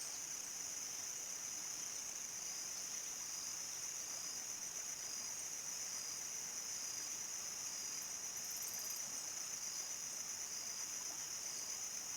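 Crickets singing in a steady, continuous high-pitched chorus.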